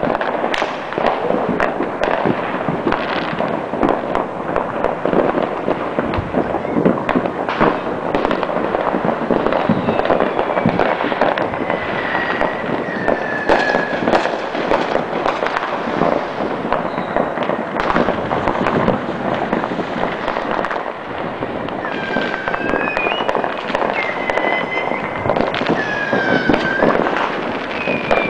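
Fireworks and firecrackers going off all across a town: a dense, unbroken run of pops, bangs and crackling. From about ten seconds in, short wavering whistling tones come and go over it.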